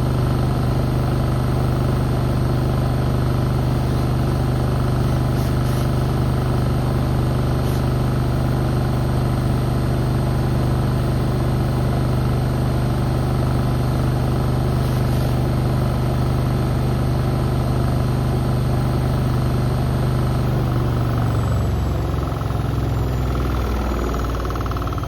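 Beko WM74135 washing machine spinning, its motor giving a steady loud hum; near the end the hum falls in pitch as the spin starts to slow down.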